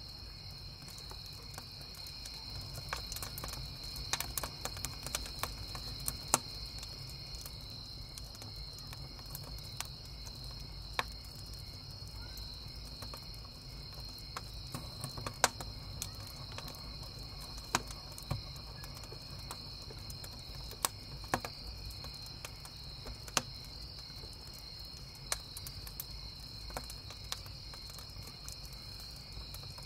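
A chorus of crickets chirping steadily in a high, even band, over a wood campfire crackling with irregular sharp pops, the loudest about six seconds in and again about halfway through.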